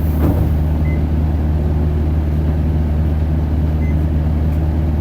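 Isuzu Erga city bus's four-cylinder diesel engine droning low and steady at an unchanging pitch, heard from inside the cabin, with two faint short high beeps about three seconds apart.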